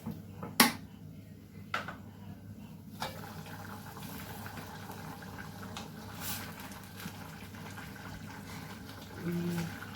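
A pot on the stove bubbling steadily, with three sharp clinks in the first three seconds, the first the loudest.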